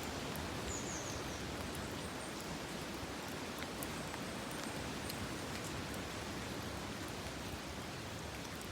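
Steady rain falling, a soft even hiss with faint scattered drops ticking.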